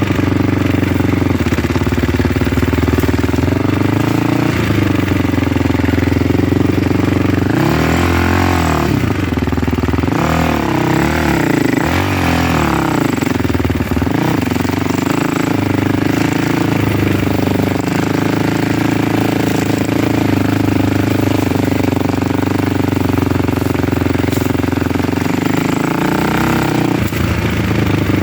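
A vehicle engine running steadily under way, its engine speed wavering up and down a few times about a third of the way in and again near the end.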